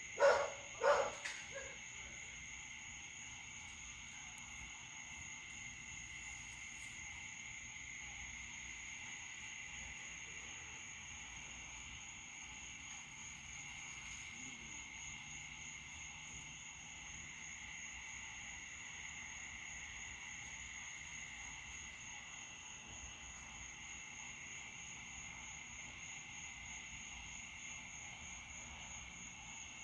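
Steady night chorus of crickets and frogs, a continuous high chirring. A dog barks twice in the first second.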